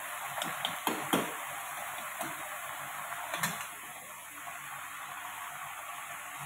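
Mustard greens frying in a kadhai with a steady sizzle, stirred with a metal spatula that gives several sharp clicks and scrapes against the pan in the first half.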